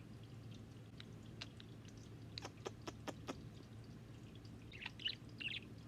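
A budgerigar's soft, quick chirps and chatter start near the end, after a few faint sharp clicks in the first half.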